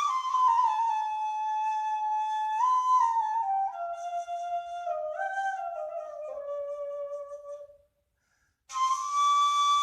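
Dilsiz kaval, the Turkish rim-blown end-blown shepherd's flute, playing an improvised melody that steps downward from a high held note to a low one over several seconds. It breaks off for under a second near the end, then comes back on a high held note.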